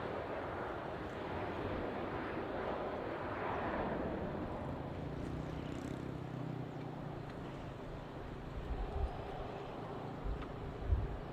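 Jet airliner engines heard as a broad rushing roar that slowly fades after the first few seconds, with a couple of short low thumps near the end.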